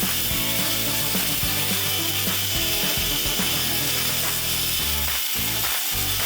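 A bench abrasive power tool runs with steel pliers pressed against it, working out the pitting. It gives a steady, loud hiss of abrasive on metal over a low motor hum that shifts as the work is moved.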